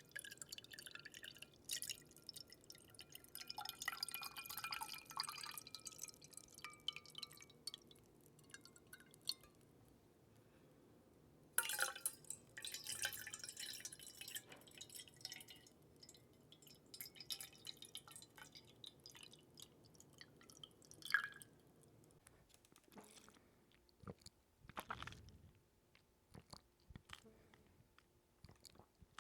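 Close-miked water dripping and trickling in a few short spells, with fine crackles and faint gliding bubble-like tones, separated by quieter gaps.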